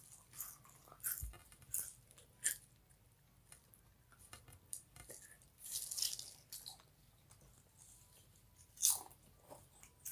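Close-miked crunching of chips being bitten and chewed, in irregular crisp crunches with pauses between.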